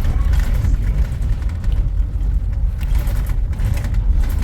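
Steady low rumble of motor-vehicle traffic, with a few faint knocks and rattles over it.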